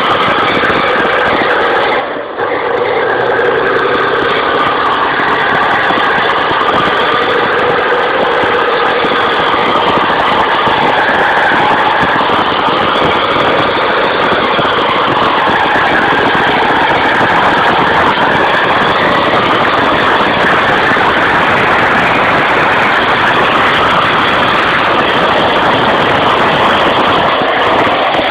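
A motor vehicle's engine running steadily and loudly, with a brief dip in level about two seconds in.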